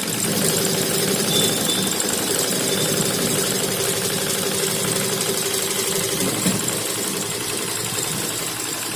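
A 12-needle high-speed embroidery machine running steadily as it stitches: a continuous, even mechanical running noise.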